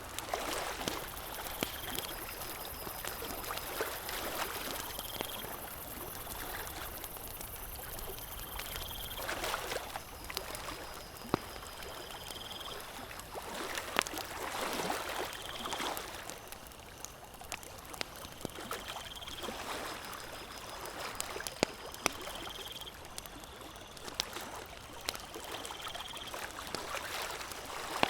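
Campfire crackling with sharp pops, over water washing and lapping in slow swells. A short high chirp repeats every second or two.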